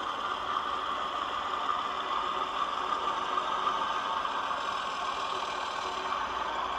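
Diesel engine sound from the DCC sound decoder of a Hornby 00 gauge Class 31 model locomotive, played through the model's small onboard speaker and running steadily.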